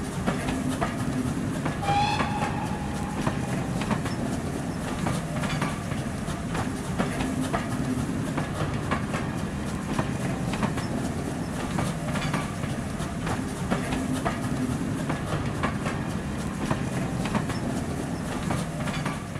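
Railway carriages passing, with a steady rumble and wheels clicking over the rail joints. A brief whistle sounds about two seconds in.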